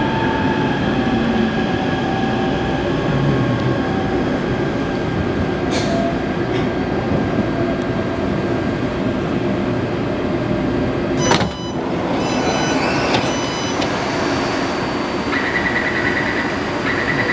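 Inside a Taipei Metro C381 train: a steady hum of the car's equipment and ventilation, a sharp clack about 11 seconds in, then a chime and a run of short repeated beeps, the door signals of the train at a station.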